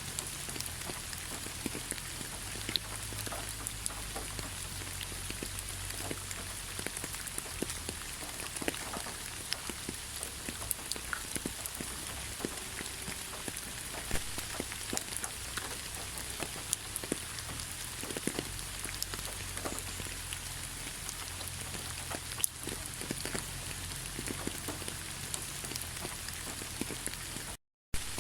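Steady rain falling in a pine forest: an even hiss with many separate drops ticking close by. The sound cuts out completely for a split second near the end.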